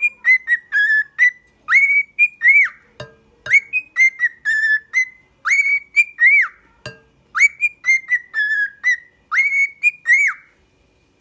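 A pet bird whistling the same short tune over and over: rising and falling notes, about one phrase every two seconds, stopping abruptly near the end.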